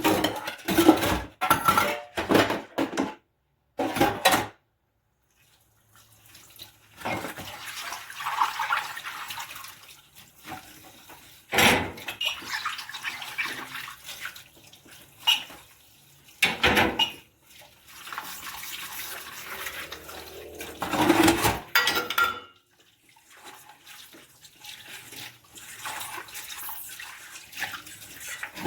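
Dishes and cutlery clattering as they are washed by hand in a sink, with tap water running over them for stretches. Sharp clinks of crockery stand out several times over the splashing.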